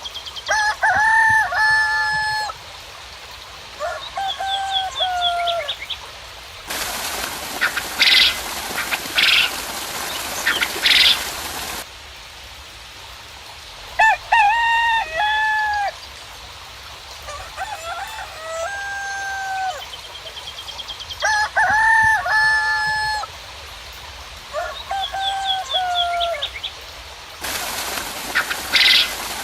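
Roosters crowing again and again, with small birds chirping and trilling. A steady hiss of rain cuts in suddenly about seven seconds in, stops as suddenly about five seconds later, and comes back near the end.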